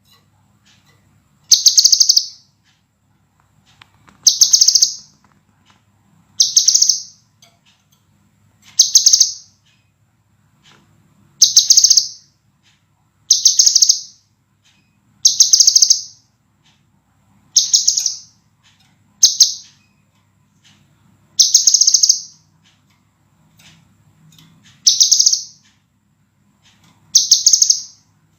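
Sepah raja (crimson sunbird) singing: short, dense, high-pitched trilled phrases, each under a second long, repeated about every two seconds.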